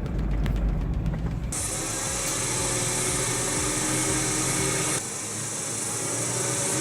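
A low rumble, then, starting abruptly about a second and a half in, a power saw running and cutting wood.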